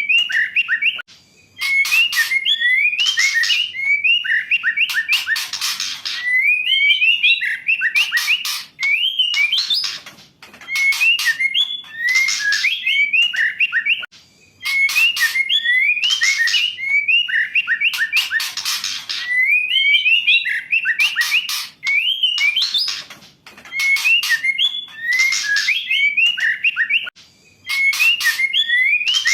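Female white-rumped shama singing: phrases of clear whistled notes that slide up and down, mixed with harsh rattling chatter. The phrases repeat every few seconds with brief pauses between them.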